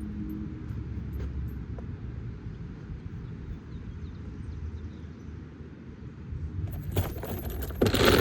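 A steady low rumble, then a metallic clattering jangle near the end.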